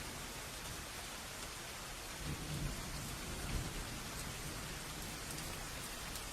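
Steady rain hissing, with a low rumble of thunder that swells about two seconds in and fades after a couple of seconds.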